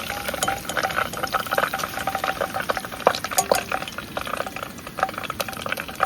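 Food frying in hot oil: a steady sizzle with many irregular sharp crackling pops.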